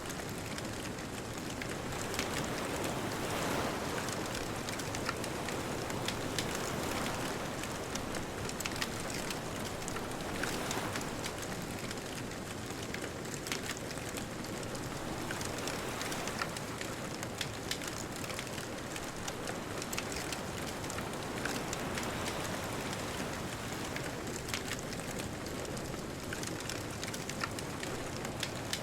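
Wood bonfire crackling, with frequent sharp pops and snaps scattered throughout, over a steady wash of distant ocean waves that swells now and then.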